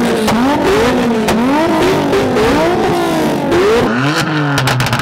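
Car engine and exhaust being revved over and over in quick throttle blips, the pitch climbing and falling back about twice a second, settling toward a lower steady drone near the end.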